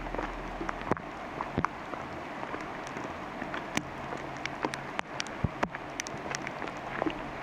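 Steady rain falling through the forest, with scattered sharp taps of heavy drops landing nearby at irregular intervals.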